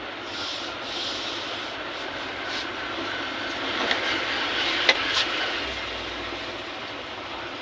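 Steady abrasive rubbing as a harmonium key is polished smooth so it will sit flush, with a few sharp clicks about four to five seconds in.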